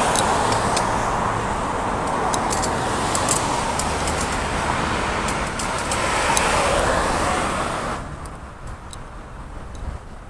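Road traffic noise, motor vehicles passing on the road, with a few light clicks over it. The noise falls away sharply about eight seconds in.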